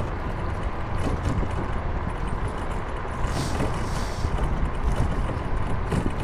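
Electric scooter riding on an asphalt road: a steady low rumble of wind and road noise, with a faint thin whine and a brief hiss about three seconds in.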